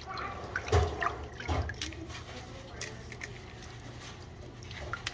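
Kitchen sink sounds of choy sum being handled in water: dripping and small splashes, with scattered clicks and two louder knocks in the first couple of seconds.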